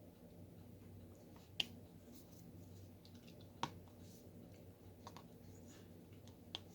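Diamond painting pen pressing drills onto the canvas: three sharp clicks about two seconds apart, with a few fainter ticks between, over a faint steady low hum.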